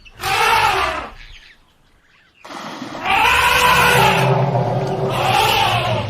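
Elephant calls: a short trumpet-like call, a pause, then about two and a half seconds in a longer, loud call that rises and falls in pitch, with a low steady rumble underneath in its second half.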